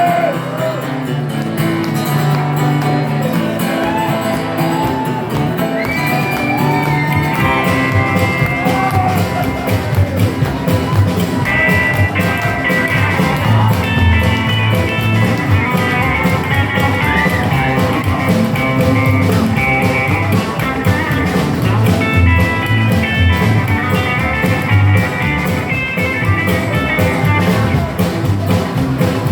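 Rockabilly band playing an instrumental intro live: electric guitar lead lines with bent notes over bass and drums.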